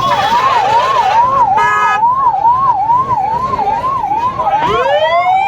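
Emergency-vehicle siren in a fast yelp, sweeping up and down about twice a second. A vehicle horn sounds briefly a little under two seconds in. Near the end a second siren starts low and winds up slowly into a long rising wail.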